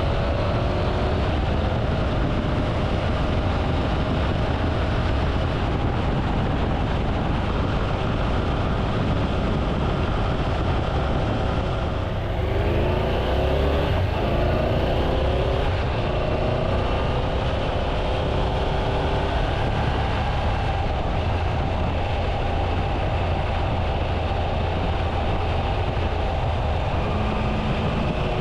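Triumph Tiger 800's three-cylinder engine running under way, under a heavy low wind rumble. The engine note holds fairly steady, then its revs drop and climb again about halfway through.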